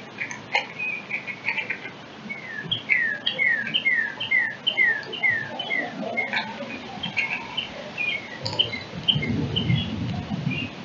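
Songbirds singing: a run of about ten quick downslurred whistled notes, two to three a second, among scattered chirps. A low rumble comes in near the end.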